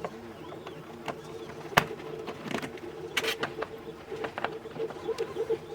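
Sharp clicks and knocks, as of small parts and tools being handled, over a steady hum and short rising-and-falling tones that repeat a few times a second.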